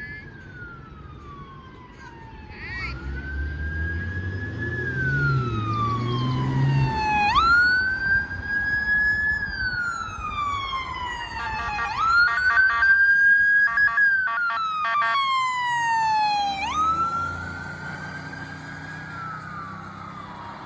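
Emergency vehicle siren on wail, each cycle rising quickly then falling slowly, about every four to five seconds. A fast warbling siren tone joins it between about 12 and 16 seconds in. A vehicle's engine and tyres rumble past twice, a few seconds in and again near the end.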